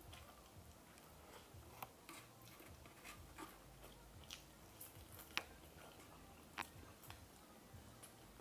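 Faint chewing and lip smacking of a person eating rice and fried fish by hand, with a few sharp mouth clicks, the loudest about five seconds in.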